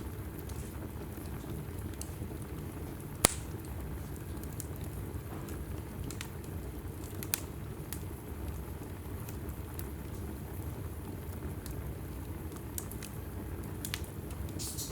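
Wood fire burning in a fireplace: a steady low rumble of flames with scattered crackles and sharp pops of the logs, the loudest pop about three seconds in.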